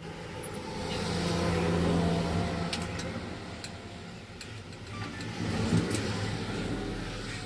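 A motor vehicle's engine passing by, growing louder to a peak about two seconds in and then fading, followed by a second vehicle swelling and dying away near the end.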